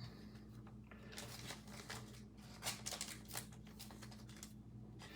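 Faint rustling and flicking of trading cards being handled, with a slightly louder flick near the middle, over a low steady hum.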